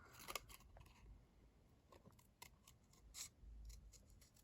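Scissors snipping paper, a few faint, short cuts.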